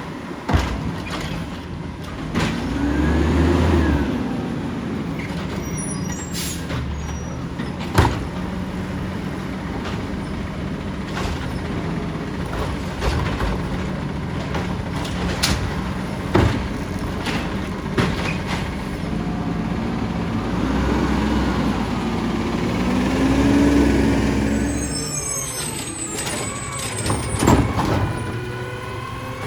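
Side-loader garbage truck working: the diesel engine runs steadily and revs up twice for a few seconds at a time, with sharp knocks in between. High squeal tones sound near the end.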